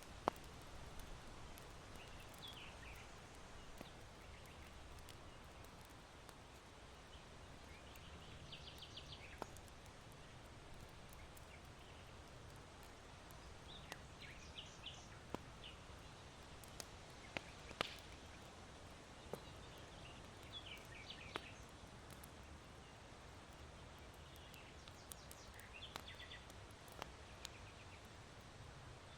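Small birds chirping in short bursts every few seconds, with scattered sharp pops from a charcoal fire, over a faint steady wind hiss.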